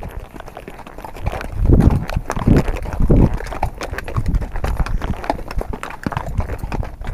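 Horse hooves clip-clopping at a walk in a quick, uneven run of clicks, with a few heavier, deep thuds about two to three seconds in.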